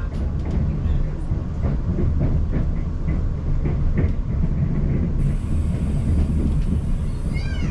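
A moving South Western Railway passenger train heard from inside the coach: a steady low running rumble with scattered clicks of the wheels over the rails.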